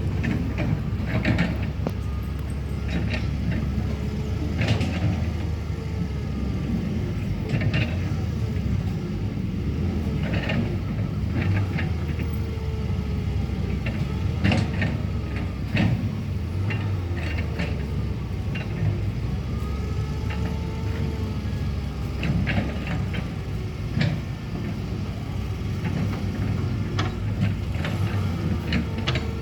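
Excavator's diesel engine running steadily while it digs, with hydraulic whines rising and falling and many metallic clanks and knocks.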